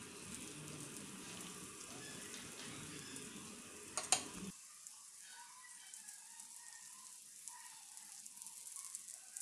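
Faint sizzling of stuffed dough pastries frying in a little oil on a flat pan, with a single sharp click about four seconds in.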